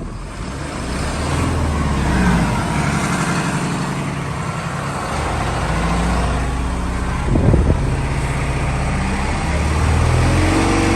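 Hino 338's inline-six diesel engine being revved up and let back down several times, the pitch rising and falling with each rev and settling back smoothly. A short sharp clack cuts in about seven and a half seconds in.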